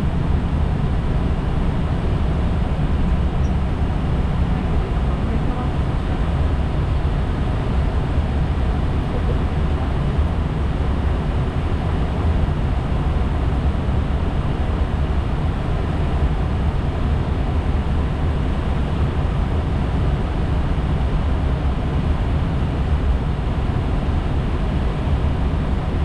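Steady flight-deck noise of an Airbus A320 in flight: a constant low rushing drone that does not change.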